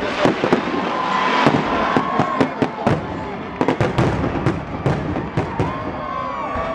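Fireworks display: a rapid series of sharp bangs from bursting shells, thickest in the middle, with music playing underneath.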